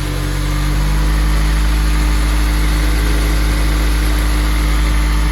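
Honda S2000's four-cylinder engine running steadily through a newly fitted aftermarket exhaust.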